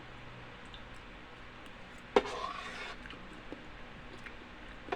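Quiet eating sounds over room tone while rice porridge is being eaten: one sharp click about two seconds in, then a brief slurp.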